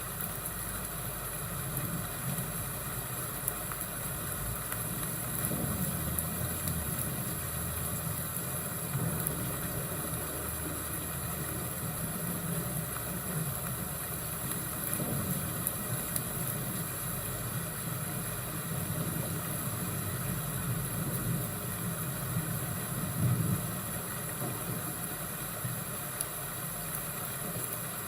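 Fireplace and thunderstorm ambience: a steady hiss with a low rumble that swells a few times, and faint scattered crackles.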